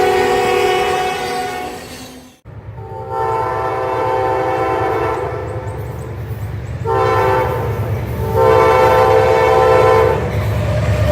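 Locomotive air horn sounding a chord in separate blasts: one blast fading out, then, after the sound cuts out briefly, a long blast, a short one and another long one. A low rumble of the train runs underneath.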